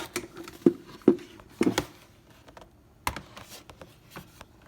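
Plastic welding helmets being handled: a series of sharp plastic clicks and hollow knocks, the loudest two about a second in, then scattered lighter clicks.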